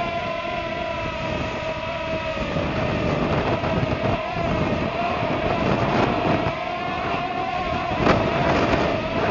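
Parrot Swing drone's electric motors and propellers whining at a near-steady pitch, with gusty wind buffeting the microphone.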